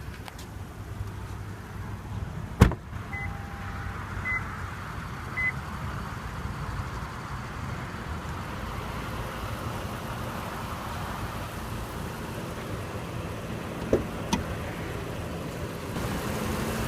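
Lexus LS 460's 4.6-litre V8 idling steadily. A sharp click comes a little over two seconds in, followed by three short, evenly spaced electronic beeps, and two small clicks come near the end.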